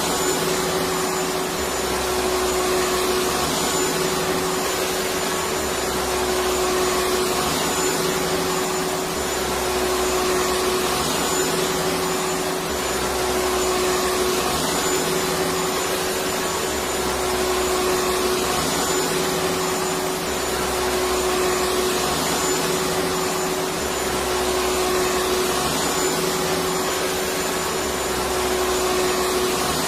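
Electric vacuum cleaner running steadily: a constant motor-and-airflow noise with a steady hum-tone in it, swelling slightly in loudness every few seconds.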